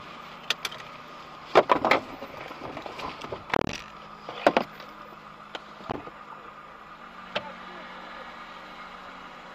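Car engine idling steadily, heard from inside the cabin, with about half a dozen sharp clicks and knocks.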